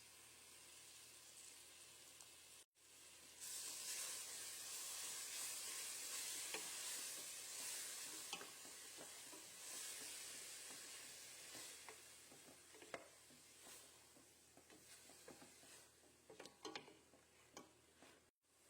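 Food frying in a pan with a steady sizzle that starts loud a few seconds in and slowly dies down. Clicks and scrapes of a utensil stirring the pan become more frequent toward the end.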